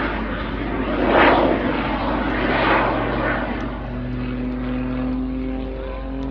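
Jet-assisted Pitts Special aerobatic biplane's engines rising and falling in loud surges as it manoeuvres. About four seconds in they settle into a quieter, steady drone.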